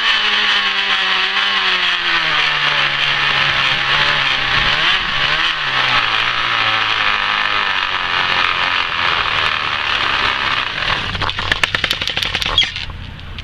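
Plastic water bottles folded into a bicycle's spokes, buzzing like a dirt-bike engine as the spokes strike them while the wheels turn. The pitch falls as the bike slows, and near the end it breaks into separate, slowing clacks before stopping.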